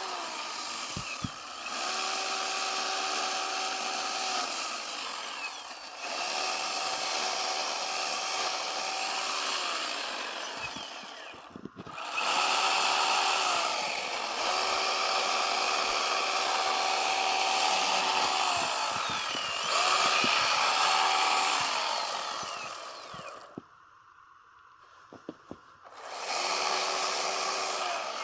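Chainsaw run at full throttle in bursts of a few seconds while cutting into a block of hard-packed snow, its pitch sliding down each time the throttle is let off. About two-thirds of the way through it drops almost to nothing for a couple of seconds, then revs up again.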